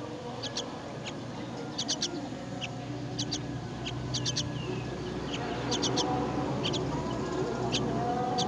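Myna chicks begging in the nest: short, high cheeps in quick clusters of two or three, repeating about once a second, over a steady lower hum.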